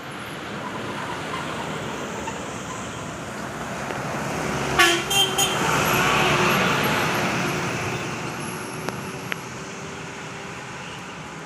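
Road traffic with a vehicle passing: a steady rush of engine and tyre noise that swells and fades. As it nears, a horn gives three quick toots about halfway through.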